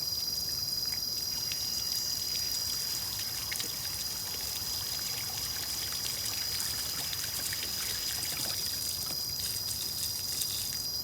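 Water running and trickling steadily, with a steady high-pitched insect trill over it.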